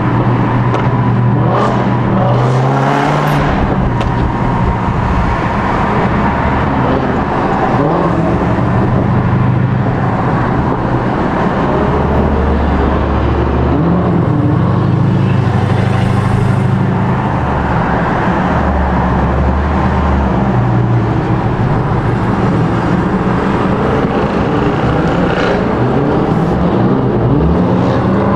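Loud high-performance car engines running and revving, their pitch rising and falling several times, with a rising rev near the end.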